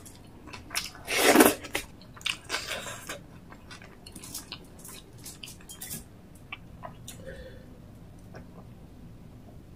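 Close-miked mouth sounds of eating rice and chicken gravy by hand: wet chewing and smacking clicks, loudest about a second in, thinning out after about six seconds.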